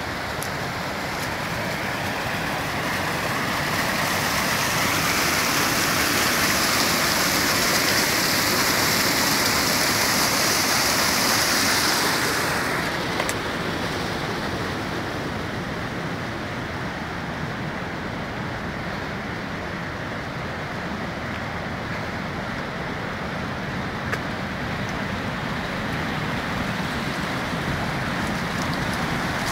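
Steady rushing and splashing of floodwater. It grows louder and hissier for several seconds, then the hiss drops off sharply about twelve seconds in.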